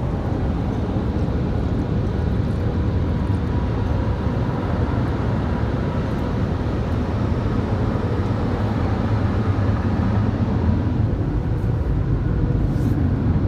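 WashTec SoftLine 2 car wash tunnel dryers, the side dryer blowers and the rotary roof jet, blowing air over the car in a steady, unbroken rush with a faint fan-motor hum.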